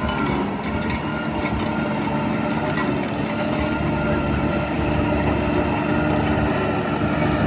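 Heavy diesel engine of earthmoving machinery running steadily at a low, even pace.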